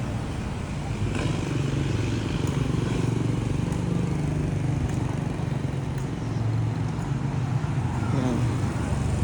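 Motor vehicle engine running steadily close by, a low hum.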